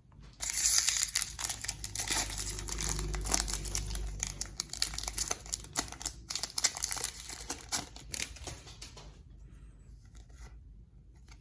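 Foil wrapper of a Pokémon trading card booster pack crinkling and tearing as it is opened by hand: dense crackling that starts about half a second in and dies down near the end.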